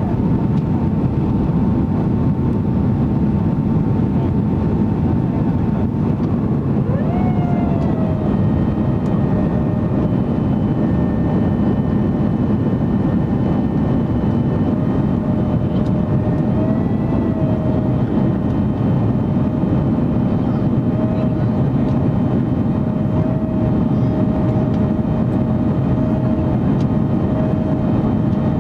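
Cabin noise of a Boeing 767-300ER in flight: a steady deep roar of its General Electric CF6 turbofans and the airflow, with a thin engine tone running through it. About seven seconds in the tone glides and settles at a lower pitch, the sign of a change in engine thrust.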